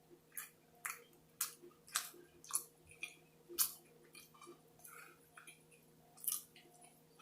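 A person chewing food close to the microphone, with wet smacking clicks about twice a second.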